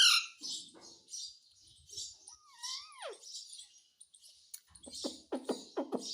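Pet parrot chirping and chattering in short high bursts, with one whistled note about two and a half seconds in that rises and then falls, and a quick run of about six short clucking notes near the end.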